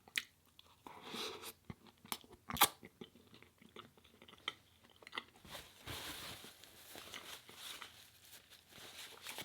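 Close-up chewing and biting of food, with sharp crunchy clicks in the first few seconds and softer chewing after about five seconds.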